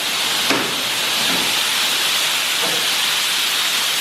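PDQ Laserwash 4000 touchless car wash spraying wax solution from the nozzles on its moving arm: a steady, even hiss of spray. There is a brief click about half a second in.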